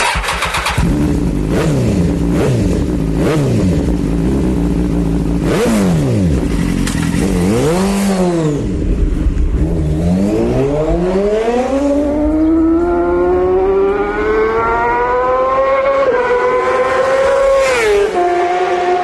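Racing motorcycle engine revving up and down several times, then pulling hard with a long rising pitch, broken by two upshifts near the end.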